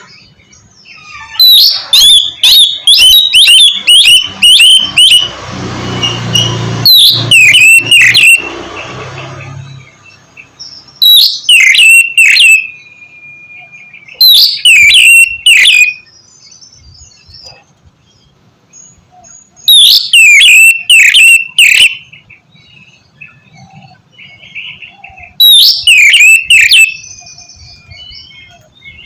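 Oriental magpie-robin (kacer) singing in loud bursts of rapid, sharp repeated notes, about six bursts a few seconds apart. A low rushing noise sits under the song around the sixth to ninth second.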